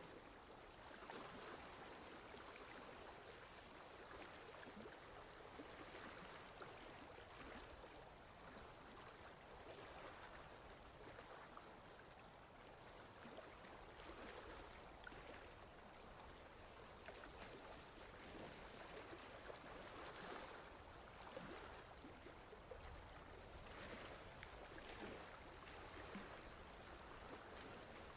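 Faint, steady running water of a stream, gently swelling and easing every few seconds.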